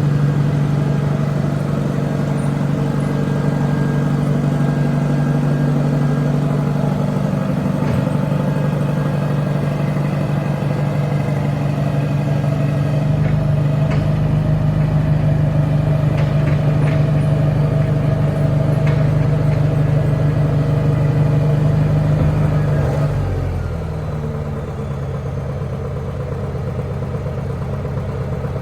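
Heavy work machine's engine running steadily under load, with a few metallic clanks partway through. About 23 seconds in, the engine note drops as it is throttled back.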